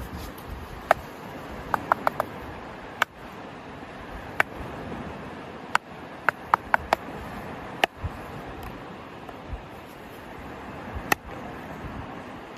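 A string of short, sharp clicks with a slight ring, some coming singly and some in quick runs of three or four, over a steady rush of background noise.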